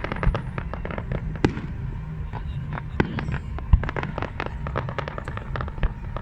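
Fireworks display going off: a dense string of crackling pops and sharp bangs over a continuous low rumble, with heavier booms now and then.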